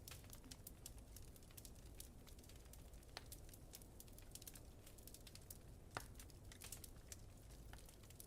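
Wood fire crackling faintly, with irregular quick snaps and two louder pops about three and six seconds in, over a steady low rumble.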